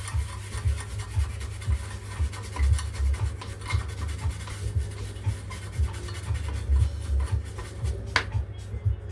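Scratchy rubbing strokes of a circuit board being scrubbed clean, with a sharper click about eight seconds in. A pulsing bass beat of background music runs underneath.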